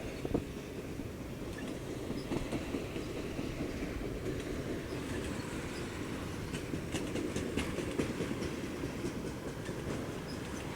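A train rolling past on the track: a steady rumble of wheels on rail, with scattered sharp clicks and clacks from the wheels that come thickest about halfway through.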